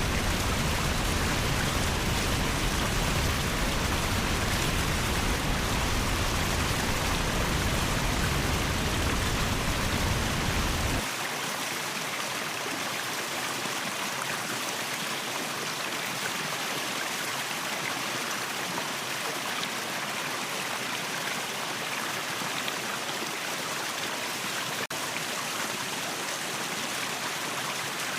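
Steady rushing water of a waterfall, an even hiss-like roar. About eleven seconds in, the deep low rumble drops away suddenly and the rush goes on lighter and a little quieter.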